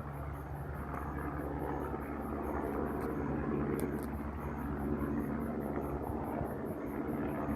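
Helicopter flying, its rotor and engine running steadily with a low drone.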